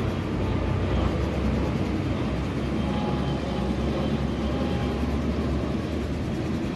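Jet airliner's engines giving a steady low rumble.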